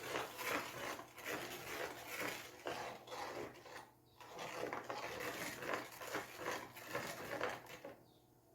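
Spoon scraping and stirring in a container, mixing a baking-soda-and-water cleaning solution, in repeated strokes. It pauses briefly about four seconds in and stops about eight seconds in.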